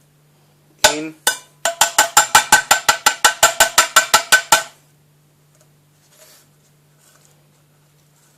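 A metal utensil rapidly tapping a tin of tuna, about twenty ringing metallic taps at roughly seven a second, as the tuna is knocked out of the tin. The tapping stops about four and a half seconds in.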